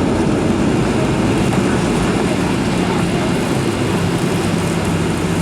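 Inside the cabin of a Boeing 737-800 during landing: loud, steady rumble of the engines and rushing air, with a low steady hum joining about halfway through.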